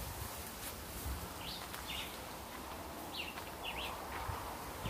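A small bird in the trees giving short, high chirps, repeated about every second, over a low background rumble.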